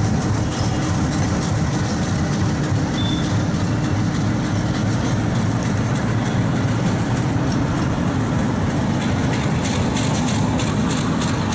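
Bangladesh Railway DEMU (diesel multiple unit) train running: a steady low rumble, with a faint steady hum through the first half.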